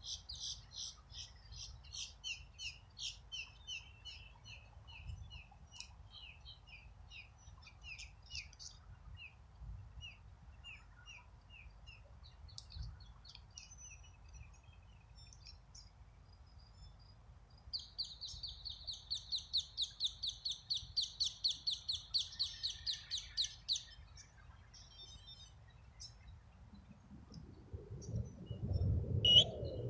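Songbirds singing in rapid, high trills, with one long, evenly repeated trill of about six seconds in the middle. A faint low rumble runs underneath and grows louder near the end.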